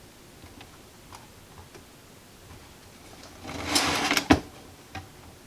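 Small hand tools working inside a radio chassis as an old paper capacitor is worked free: a few faint clicks, then about a second of scraping and rattling that ends in a sharp click, with one more click near the end.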